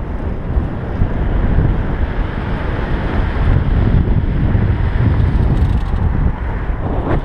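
Wind buffeting the microphone of a camera riding along on a moving bicycle: a loud, steady low rumble with no break. A short scrape or click is heard just before the end.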